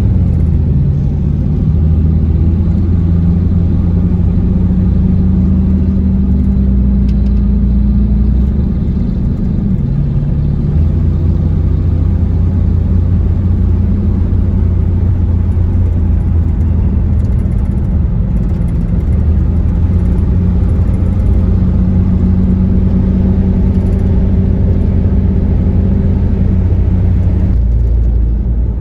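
Chevrolet S10 pickup's engine running steadily, its pitch stepping down and back up a few times as engine speed changes.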